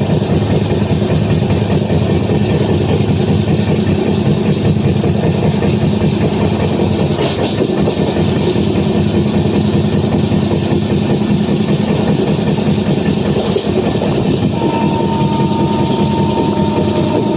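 Indian Railways train running along the track: a steady rumble with the wheels clacking over rail joints and points. A thin steady whine comes in near the end.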